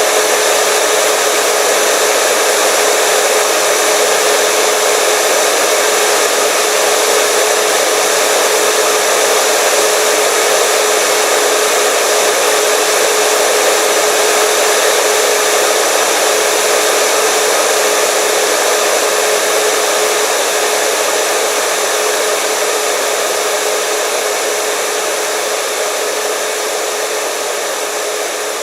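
Hair dryer running continuously: a steady rush of air with a constant motor whine, gradually getting quieter over the last third.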